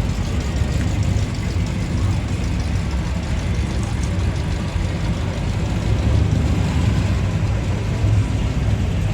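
Classic car engines idling and running slowly, a steady low rumble.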